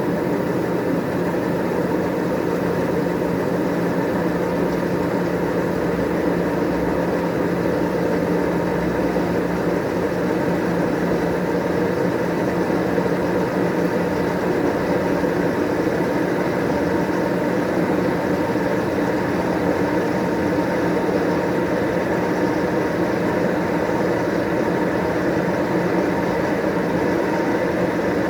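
White Westinghouse washing machine in its spin cycle: a steady, even motor-and-drum hum with no knocks or change in pitch. It is running smoothly, which the owner calls a perfect spin.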